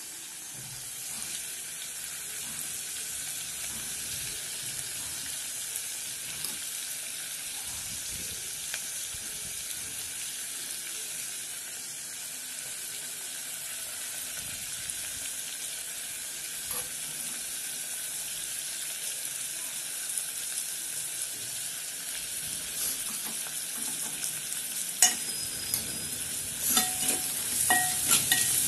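Onion-tomato masala sizzling steadily as it fries in a metal pot, stirred with a steel spoon. Over the last few seconds the spoon scrapes and clinks against the pot, with short metallic rings.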